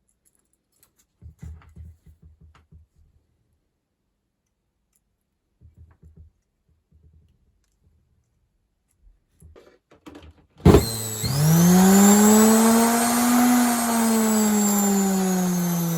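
Faint clicks and handling, then a sharp click about two-thirds of the way in as a washing machine's universal motor switches on through a homemade triac speed controller. The motor whines loudly, its pitch rising as it spins up, peaking, then slowly falling as the speed is eased back.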